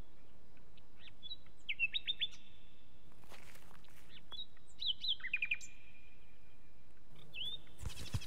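Small birds chirping in quick groups of short, sharp notes, several clusters a few seconds apart, over a steady faint outdoor background. A brief thud sounds just before the end.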